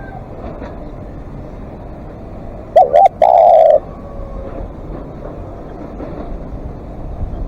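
Spotted dove cooing: one phrase about three seconds in, two quick looping notes and then a longer, drawn-out coo.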